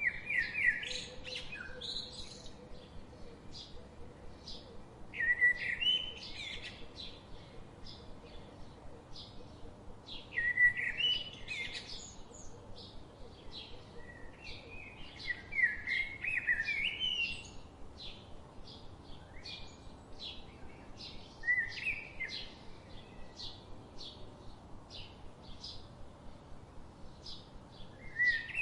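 Birds chirping and singing: one bird repeats a short warbled song phrase about every five seconds, over a steady run of quick, high chirps.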